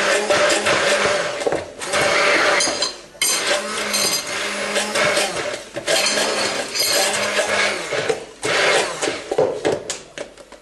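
Electric blender running as it blends homemade mayonnaise of egg, oil and lemon juice, with a few brief dips, then stopping near the end.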